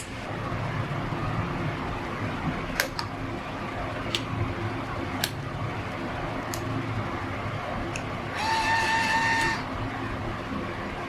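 Scattered sharp clicks over a steady background hum, then a steady pitched whine of about a second near the end.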